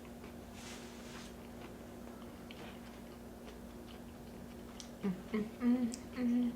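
Close-miked chewing of food, with faint wet mouth clicks, then a few short hummed sounds from the eater near the end.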